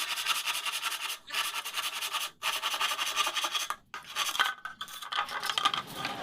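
Repeated scraping strokes on wood, each lasting about a second with short breaks between them.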